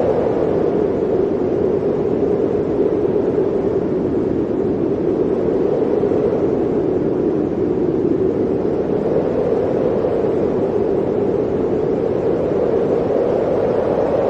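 Blizzard wind blowing steadily as a dense rushing noise, its hollow pitch sinking slightly and then rising again over several seconds.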